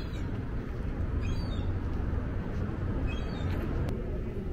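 A small bird chirping: three short high calls about a second and a half apart, over a steady low background rumble.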